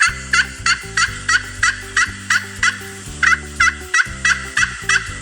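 Turkey gobbling: a long run of short repeated calls, about three a second, over steady background music.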